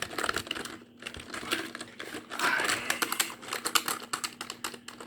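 Fast typing on a computer keyboard: quick, irregular flurries of key clicks, densest about halfway through.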